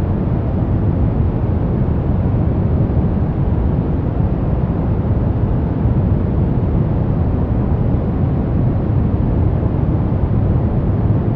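Steady, unbroken synthetic noise for sleep and relaxation, heaviest in the low end, so it sounds like a deep rumbling hiss rather than a bright one. It does not change or pulse.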